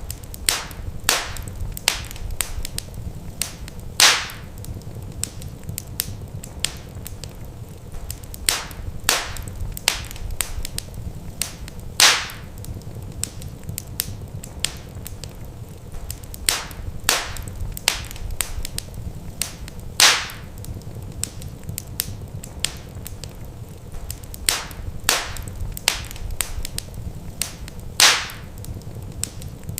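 Wood fire crackling: irregular sharp snaps and pops over a low steady rumble. A louder pop comes every eight seconds, the sign of a looped recording.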